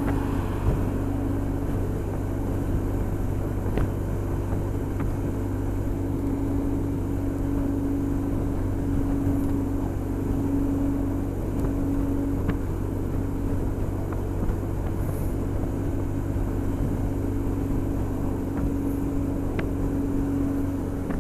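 Honda SH 300i scooter's single-cylinder four-stroke engine running steadily at cruising speed, with steady wind and road noise.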